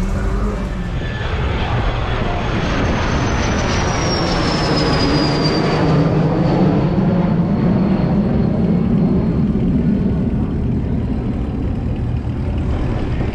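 Cadillac CTS-V coupe's supercharged 6.2-litre V8 running, a steady loud engine sound with a high whine that slides down in pitch a few seconds in.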